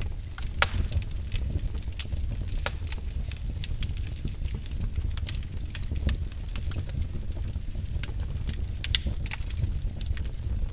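Wood fire burning in a fireplace: a steady low rumble of the flames with irregular sharp crackles and pops, one louder pop about half a second in.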